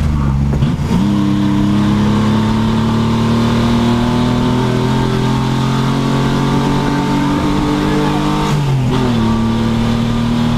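Pontiac Fiero race car's engine running hard under load. Its pitch rises about a second in and creeps upward, then drops sharply about eight and a half seconds in and holds steady.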